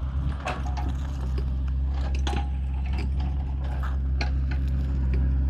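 Excavator's diesel engine running steadily, with scattered sharp knocks and cracks on top.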